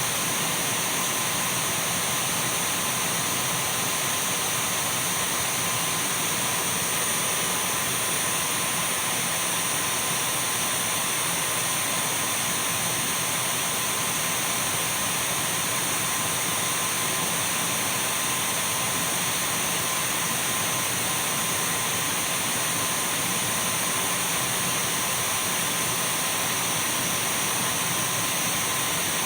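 Dyson V12 cordless stick vacuum cleaner running steadily: an even rushing hiss of air with a thin, steady high-pitched whine.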